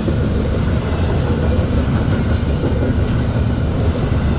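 Freight train rolling past, a steady low rumble heard from inside a truck cab.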